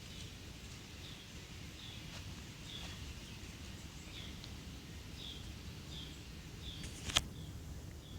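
A bird repeating a short high chirp about once a second over a low outdoor rumble, with one sharp click about seven seconds in.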